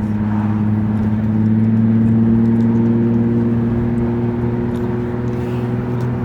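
Car engine idling through its exhaust: a steady, low, even drone that swells slightly about two seconds in.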